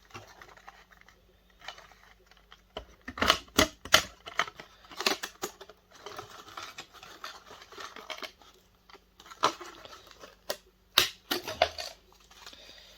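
A projector's parts being pried and pulled apart by hand: a series of sharp clicks and knocks, with scraping between them.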